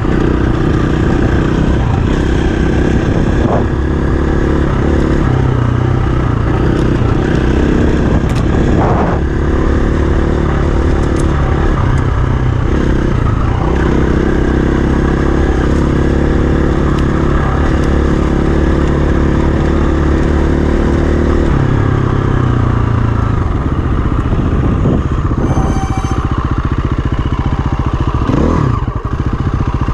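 Dirt bike engine running at a steady cruise, heard from on the bike. The engine note drops about two-thirds of the way through, and there is a brief change in revs near the end.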